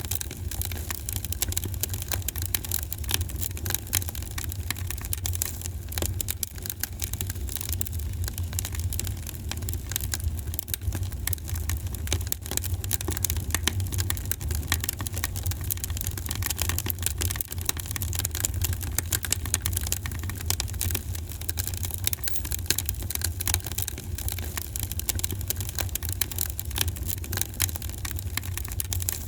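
Wood fire in a fireplace, crackling and popping continuously with many small quick snaps over a steady low rumble.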